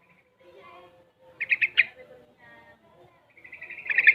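Young sooty-headed bulbul singing: a short burst of quick notes about a second and a half in, then a longer, fast trill starting near the end.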